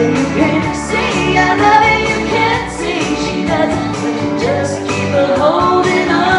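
Music: a woman singing a pop song over a band backing track.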